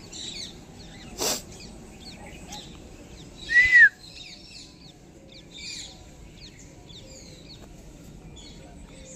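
Small birds chirping and twittering throughout. There is one sharp click a little over a second in, and a loud, short, arching high call about three and a half seconds in.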